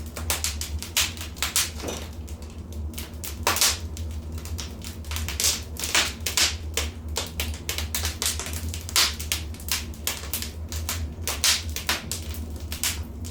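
Fire crackling in a fireplace: many irregular sharp pops and snaps, some much louder than others, over a steady low rumble.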